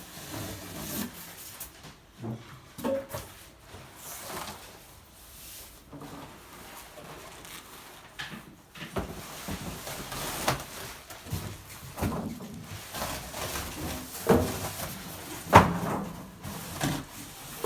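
Irregular knocks, clicks and rubbing as things are handled, with several sharper knocks in the second half, the loudest about three-quarters of the way through.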